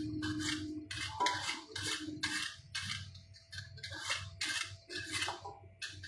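A kitchen blade working on potatoes: quick, evenly repeated scraping strokes, about two or three a second, over a low steady hum.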